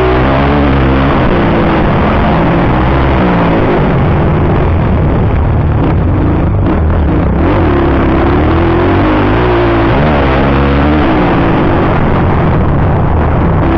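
Motocross dirt bike engine running loud, its pitch rising and falling again and again as the throttle is opened and closed, over a steady rush of noise.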